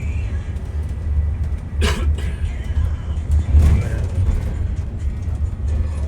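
Steady low rumble of a moving vehicle heard from inside, with music playing faintly over it and a short sharp click about two seconds in.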